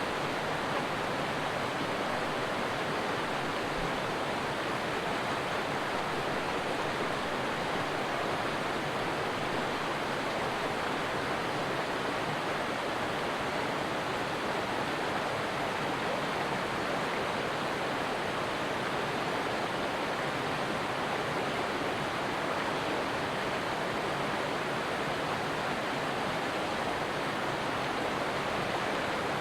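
A stream of water flowing steadily, a continuous even rush with no breaks or changes.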